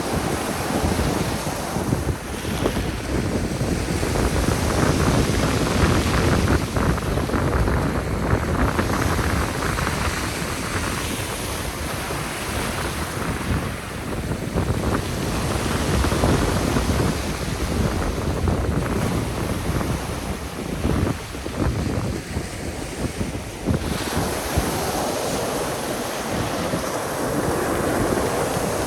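Sea surf breaking and washing on the shore, swelling and falling back every few seconds, with wind buffeting the microphone.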